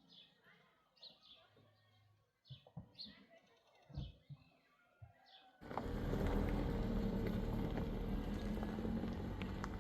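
A small bird calling in short, high chirps that fall in pitch, repeated every half second or so, with a few soft knocks. Just past halfway the sound cuts abruptly to a loud, steady noise with a low hum underneath.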